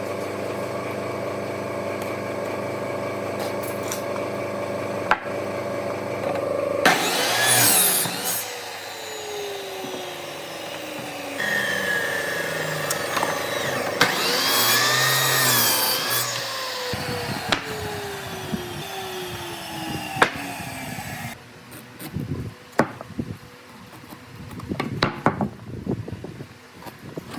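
Woodworking power tools on a hardwood slab: a steady motor running, then motors winding down with falling pitch. Near the end come irregular knocks and scraping of wood being handled.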